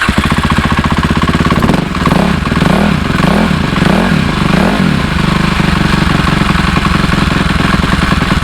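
Cannondale 440 dirt bike's fuel-injected single-cylinder four-stroke engine firing up on the electric starter and running. Its speed wavers up and down a few times in the first seconds, then settles into a steady fast idle, set high on purpose because a low idle makes it hard to start.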